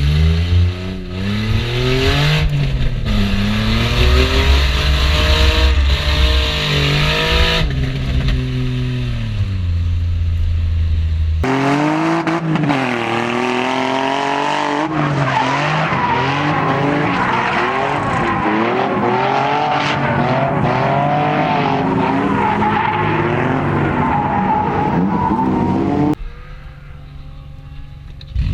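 Infiniti G35's V6 engine revving up and dropping repeatedly while drifting, with tyres squealing and skidding. The sound drops to a quieter level for a couple of seconds near the end.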